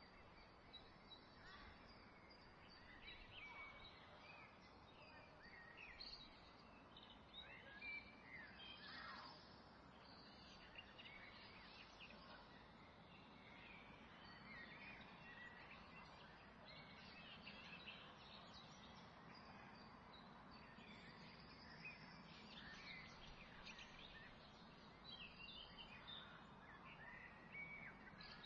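Near silence: a faint steady hiss with faint, scattered bird chirps.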